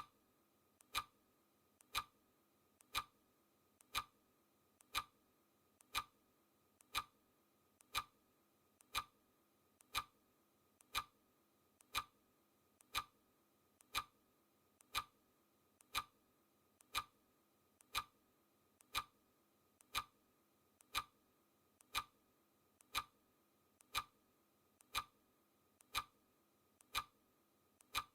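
Clock ticking sound effect: crisp, even ticks once a second.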